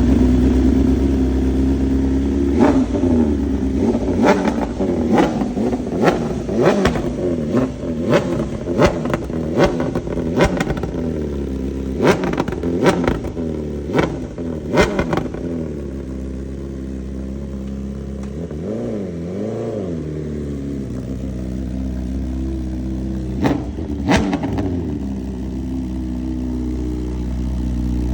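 BMW S1000RR's inline-four engine idling and being revved through its exhaust: a string of quick, sharp throttle blips, then one slower rev up and back down, and one more blip near the end before it settles to idle.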